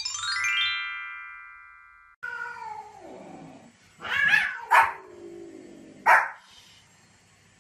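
A rising chime-like sweep that rings and fades, then a small fluffy white spitz-type dog giving a few short sharp barks at cats, mixed with long drawn-out meowing.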